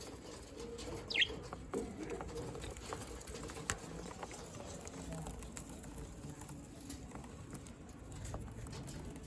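Budgerigars in a cage: one short high chirp about a second in, then scattered light clicks and taps through the rest.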